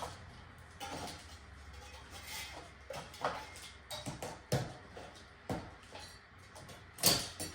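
A spatula scraping and tapping against a gingerbread house, prying candy pieces off its surface: irregular short scrapes and clicks, the loudest near the end.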